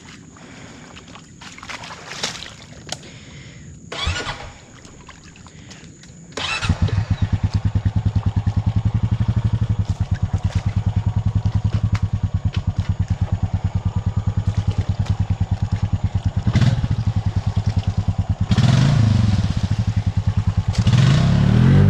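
Honda Rancher 420 ATV's single-cylinder four-stroke engine starting about six and a half seconds in after a few knocks, then running with a fast, even pulse. Near the end it is revved up and down twice while the four-wheeler sits stuck, bottomed out in a muddy rut.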